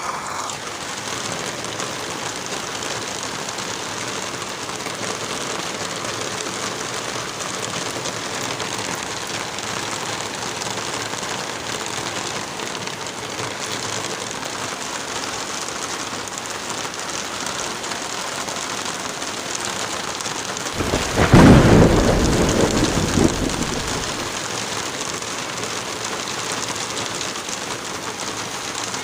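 Steady rain falling, with a single loud clap of thunder about two-thirds of the way through that rumbles for a few seconds and dies away.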